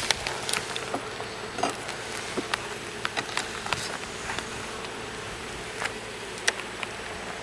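Honeybee colony buzzing steadily around an opened hive, the bees agitated at being disturbed, with scattered light clicks throughout.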